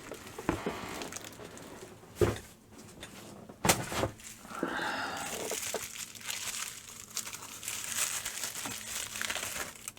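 Packaging crinkling and rustling as a replacement screen is unwrapped by hand, with a couple of sharp clicks about two and four seconds in.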